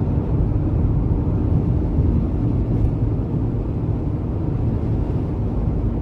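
Strong gusting wind buffeting the microphone in a windstorm: a steady, loud, deep rumble that rises and falls slightly with the gusts.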